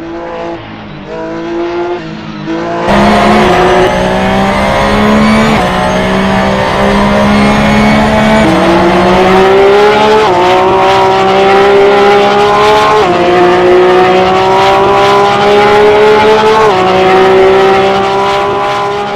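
Porsche 911 GT3 R race car's naturally aspirated flat-six engine running hard at racing speed. It is quieter for the first few seconds, then loud, with the engine note changing abruptly at gear changes about four times.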